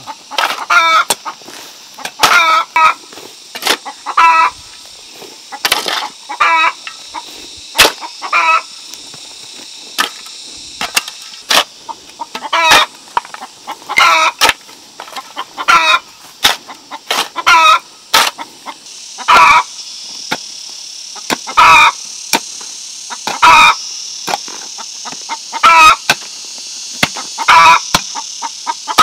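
Chickens clucking and calling over and over in short bursts, with scattered sharp clicks and a steady high hiss behind them.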